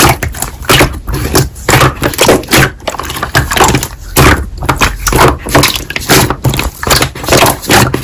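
Slime being squeezed and pressed by hand, a quick irregular run of sharp squelches and pops, several a second.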